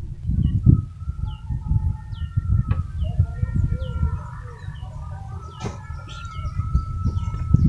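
Birds calling: a small bird's short, high, falling chirps repeat about twice a second, over a steady low rumble, with a couple of sharp clicks.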